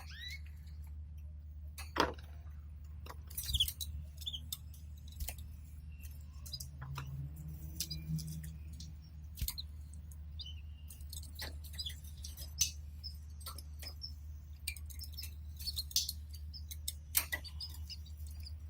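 Canaries moving about a cage: scattered clicks and taps on the wire, perches and nest material, with a few brief chirps, over a steady low hum.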